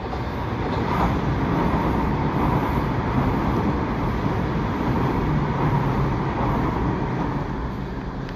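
Southern commuter train passing beneath the bridge, a steady rumble of wheels on rail and running gear that swells about a second in and holds as the carriages go by, then cuts off suddenly near the end.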